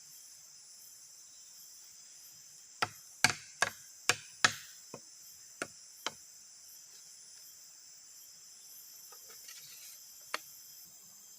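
About eight sharp blows of a tool striking wood in quick succession, roughly two a second, then a single blow near the end, over a steady high-pitched chirring of forest insects.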